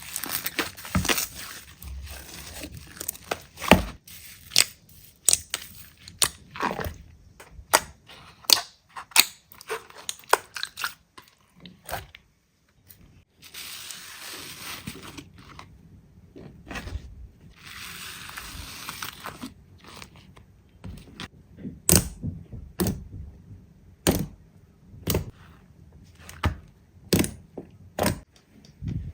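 Slime being squeezed, poked and pressed by hand: irregular sharp pops and squelchy clicks, with a few stretches of steady crackling.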